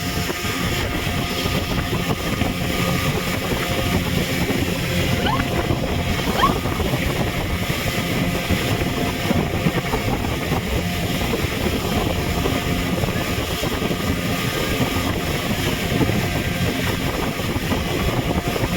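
Speedboat engine running steadily under way, with water rushing past the hull.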